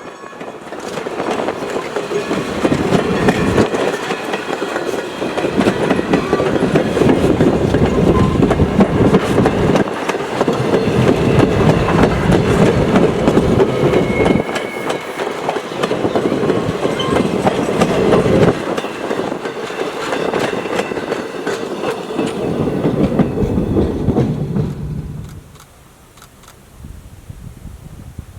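Steam-hauled passenger train rolling past, its wheels clicking over rail joints in surging waves, then fading away sharply about 25 seconds in.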